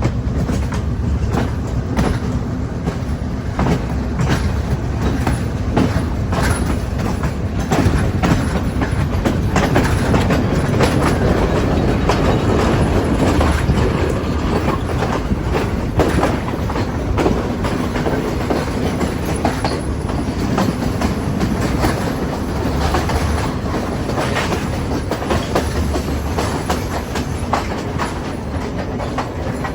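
Train running along the track: a steady low rumble of the cars with the irregular clickety-clack of wheels passing over rail joints.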